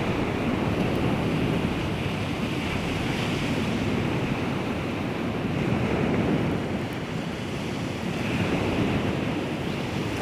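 Baltic Sea waves washing on the shore, a continuous wash that swells and eases every few seconds, with wind on the microphone.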